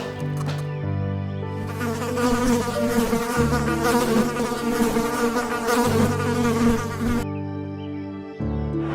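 Buzzing insect in flight, a wavering drone that starts about two seconds in and cuts off near the end, over steady low tones.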